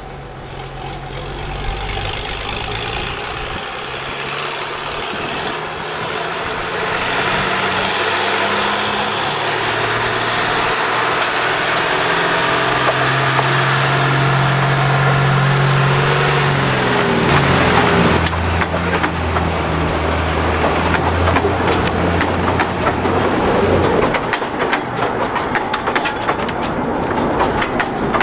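A narrow-gauge salt railway train passes. The locomotive's engine note grows louder and drops in pitch as it goes by, then the wagons rattle and clack over the rail joints.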